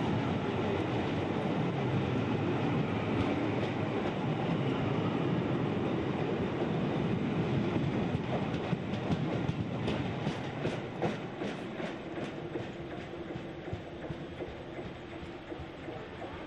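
Passenger train running along the track, heard from an open carriage window: a steady rumble of wheels on rail, loudest while close alongside a train on the next line. A little past the middle comes a quick run of clicks as the wheels cross rail joints and pointwork, and the noise eases off toward the end.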